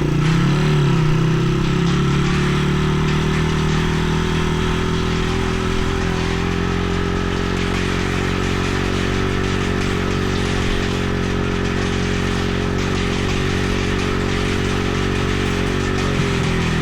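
Dirt bike engine running at a steady, even pitch for a long stretch, with a small change in pitch shortly before the end.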